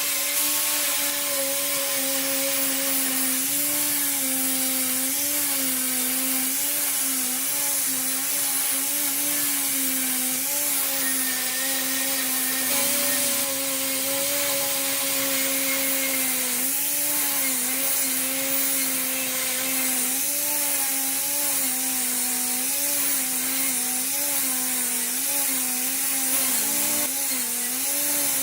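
Electric power tool motor running continuously with a steady whine whose pitch dips briefly again and again as the tool is pressed into the work. A bright abrasive hiss runs with it, typical of rust being ground or brushed off metal.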